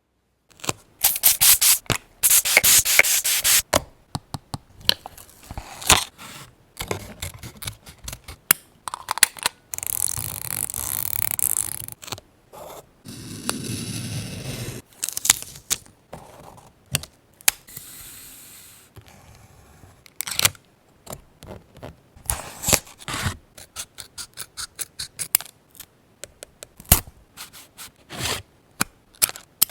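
Paper-craft handling: scissors snipping paper in many short, sharp cuts, with a couple of longer stretches of paper being rubbed and scraped, around the middle.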